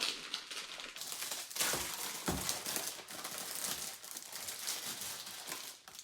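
Plastic packaging crinkling and rustling as it is handled, with a couple of soft knocks in the first half.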